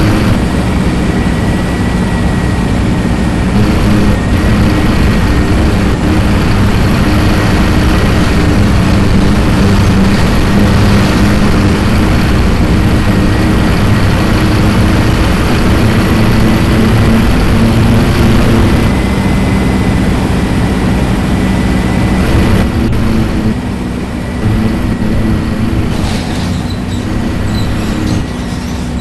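Scania diesel engine of a 2007 Marcopolo Torino city bus heard from inside the bus, running steadily under way, with a thin high whine over the engine drone. The sound eases and gets quieter over the last several seconds.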